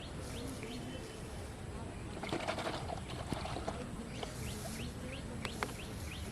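A small animal chirping over and over, about three short chirps a second, with a brief burst of rustling noise about two seconds in and two sharp clicks near the end.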